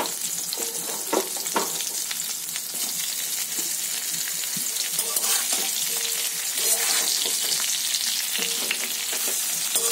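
Brinjal slices sizzling in hot mustard oil in a kadai, with a steady high hiss. A metal spatula stirring them gives scattered scrapes and knocks.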